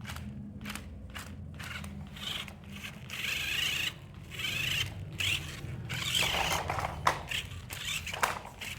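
Toy car, a run of sharp plastic clicks and rattles with patches of rasping noise over a steady low hum.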